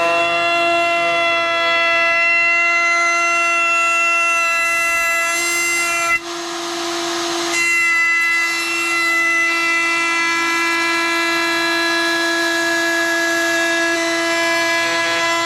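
Wood router spinning at full speed with a steady high whine, routing a pine guitar body. About six seconds in the whine briefly gives way to a rougher cutting noise for a second and a half, then settles back.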